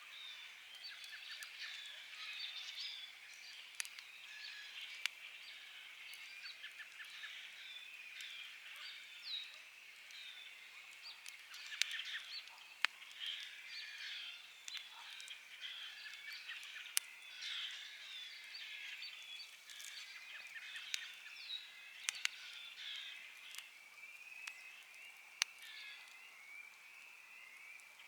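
A dense chorus of many birds calling and singing over one another, with occasional sharp pops from a crackling wood campfire, about nine in all.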